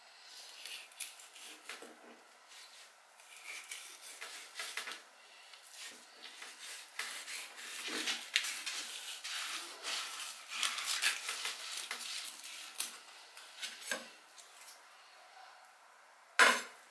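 Kitchen knife scraping along a bamboo cutting board as it is worked between a sea bass fillet's skin and flesh, in a run of short rasping strokes. A single sharp knock on the board near the end.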